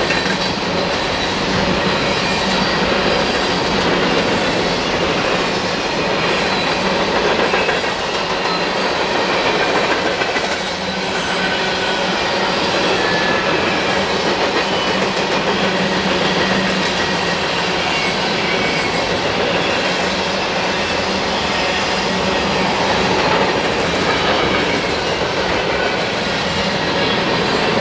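A train rolling past, a steady noise of steel wheels on the rails with faint high squealing.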